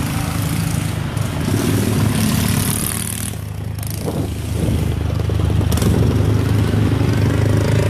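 Vehicle engines running in street traffic: a steady low engine drone with road noise, which grows louder in the second half.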